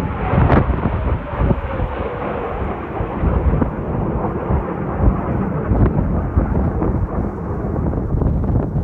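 Kawasaki T-4 jet trainer passing overhead, its whine falling in pitch over the first few seconds above a low rumble. Heavy wind buffets the microphone throughout.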